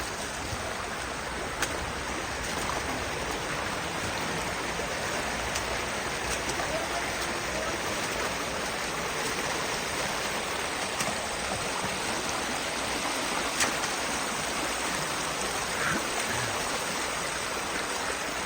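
Canyon creek water rushing steadily, with a few faint sharp clicks.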